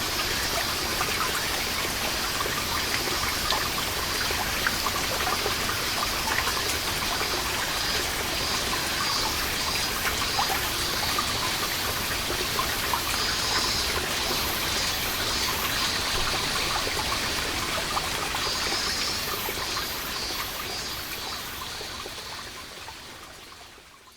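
Water seeping through a moss-covered wall and falling as many small drops in a steady trickle. Cicadas buzz in repeated pulses from about halfway through. The sound fades out near the end.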